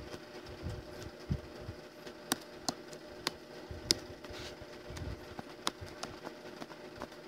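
Scattered light clicks and taps at irregular intervals over a faint, steady electrical hum.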